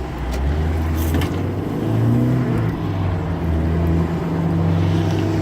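Car engine running steadily at low speed, a constant low hum with a slight change in pitch about two seconds in, as the car is driven slowly.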